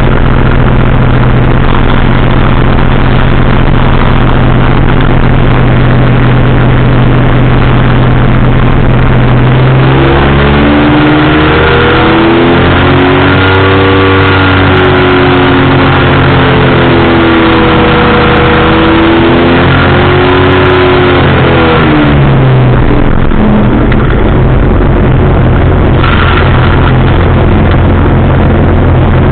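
Powered parachute's engine and propeller running loudly and steadily. For a stretch in the middle, the engine pitch wavers, sliding up and down, as the throttle changes, before it settles back to a steady drone.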